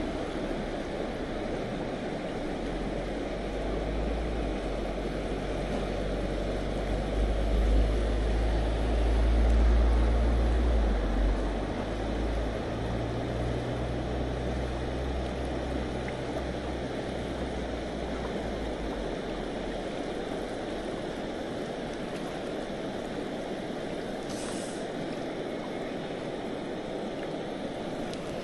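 Steady rush of river current over rapids. A deep low rumble swells in for several seconds in the middle, loudest about a third of the way through, then fades.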